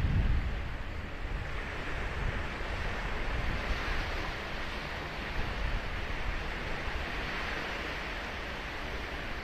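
Ocean surf breaking and washing up the shore in a steady hiss that swells through the middle. There is a low rumble right at the start.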